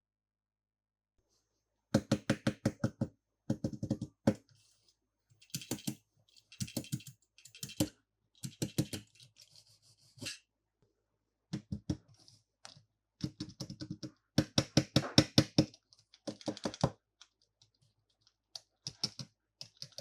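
Runs of rapid clicking and clattering from small hard plastic toys or their packaging being handled, in short bursts with brief pauses.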